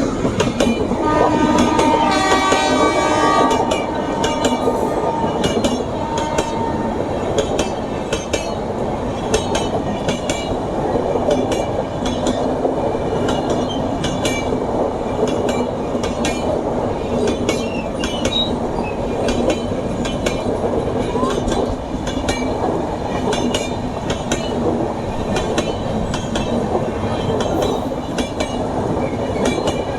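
A train horn sounds for a few seconds near the start. Then the train runs through on the track: steady rumble with the repeated clickety-clack of wheels crossing rail joints.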